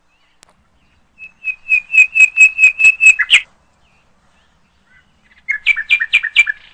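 A songbird singing two fast runs of repeated high chirps, about six notes a second. The first run lasts about two seconds and ends in a quick flourish; a shorter second run comes near the end.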